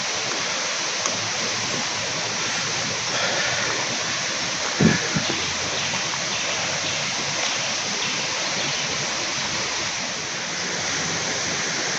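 Steady rushing of flowing river water, with one brief sharper sound about five seconds in.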